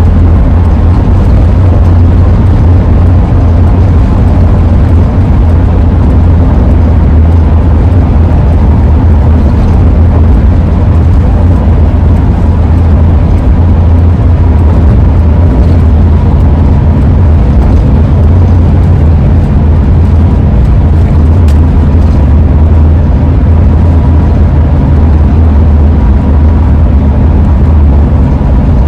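2001 Ford E-350 van driving at steady speed, heard from inside the cab: a loud, steady low road and wind rumble. A faint steady tone runs over it, the howl from the AA ladder roof rack.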